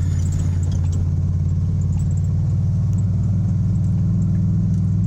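Service truck's engine running steadily on the road, a constant low drone that is not quiet.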